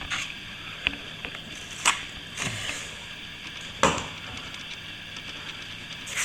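Plastering hand tools being handled: a handful of separate sharp knocks and clicks, the loudest about two and four seconds in.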